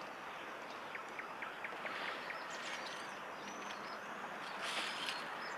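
Outdoor lakeside ambience: a steady hiss with small birds chirping, a quick run of short chirps about a second in and higher whistled calls later on.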